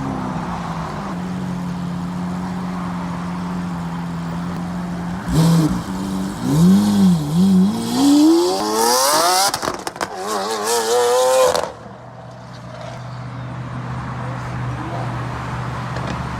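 A car engine running steadily, then revved hard up and down several times, with the pitch climbing steeply and a hissing tire noise at the loudest point. It then drops back to a lower, quieter steady hum.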